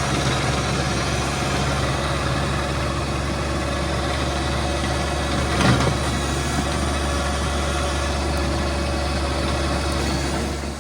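John Deere 2025R compact tractor's three-cylinder diesel engine running steadily while working a rear rototiller. A single knock sounds about halfway through.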